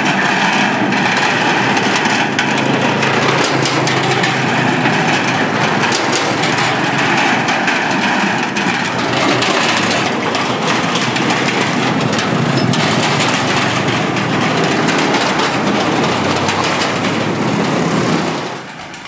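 Motorbikes crossing the Cẩm Kim steel bridge: a steady din of small engines mixed with a dense clatter. It falls away abruptly about eighteen seconds in.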